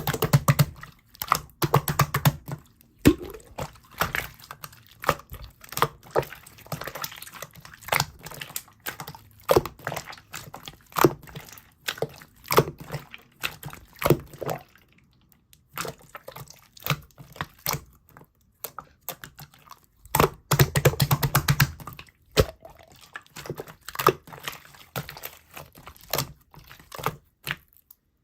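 Slime being pressed, poked and stretched by hand, giving an irregular stream of sharp clicks, pops and crackles with a few longer squishy stretches.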